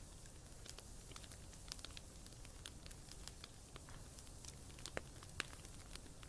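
Campfire burning: irregular sharp pops and crackles over a low steady rumble, with two louder pops about five seconds in.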